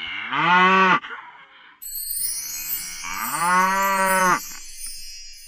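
Water buffalo mooing twice, the second call longer than the first.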